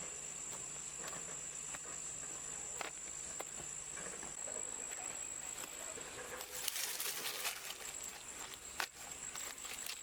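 Steady high-pitched insect drone, like crickets, with a few scattered light knocks and a short scraping rush about seven seconds in.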